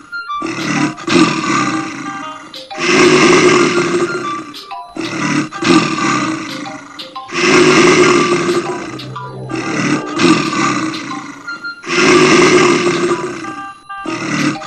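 Animal toy's speaker playing a recorded animal roar over and over, each roar about two seconds long with short gaps between.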